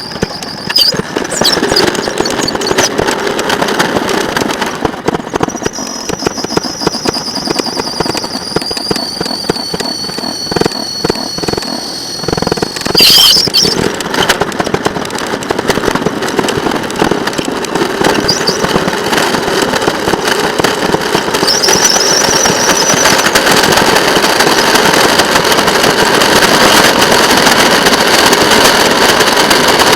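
Sped-up sound of a railroad motorcar (speeder) running on the track: a dense, rapid clatter of wheels on rail, with high wheel squeals that slide in pitch now and then. A sharp, loud burst comes about 13 seconds in, and the clatter grows louder over the second half.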